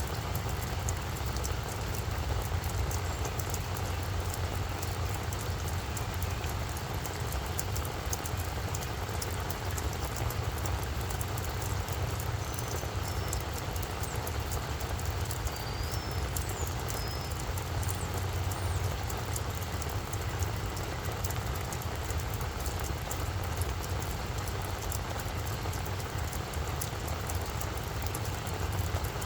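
Steady rain falling on a flower bed, drops pattering in a fine continuous crackle over a constant low rumble.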